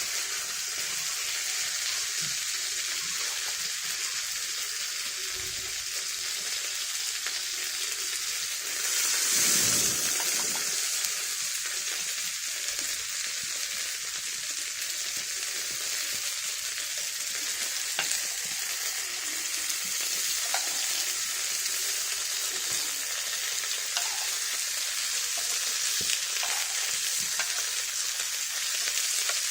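Food frying in a hot pan: a steady sizzle that swells louder for about a second and a half around nine seconds in, with a few faint ticks.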